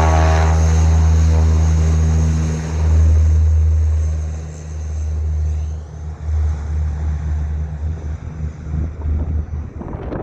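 Propeller airliner's engines and propellers giving a loud, steady low drone that fades away over about the first five seconds, followed by gusting wind buffeting the microphone.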